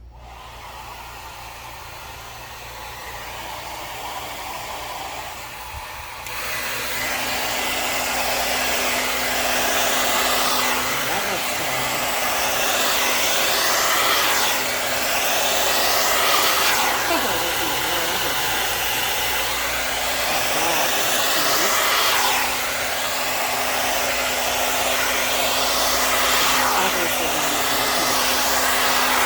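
Hair dryer blowing wet acrylic pour paint across a canvas. It starts quieter, grows, and jumps louder about six seconds in. Its sound sweeps up and down every couple of seconds as it is moved over the paint.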